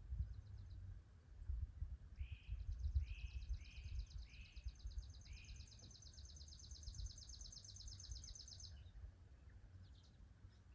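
Small birds singing faintly: a rapid high trill that runs for about seven seconds, overlapped by five short down-slurred chirps. A steady low rumble lies underneath.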